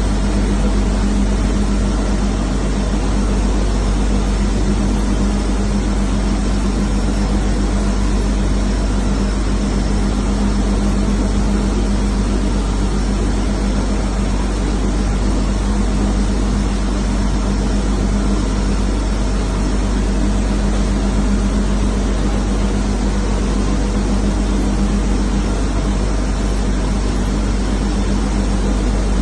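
Water chiller system running: a loud, steady machine drone with a constant low hum and no change throughout.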